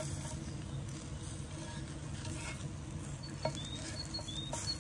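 A pied flycatcher singing: a run of short, high chirping notes starting about three seconds in and repeating about twice a second, over a steady low background noise.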